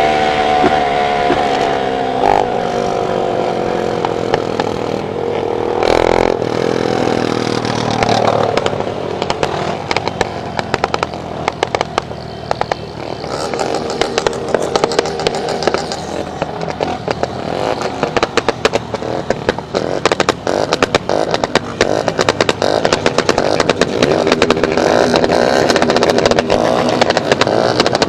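Motorcycle engine revving hard, its pitch falling over the first several seconds, then running on with a rapid, irregular crackle and rattle through the second half.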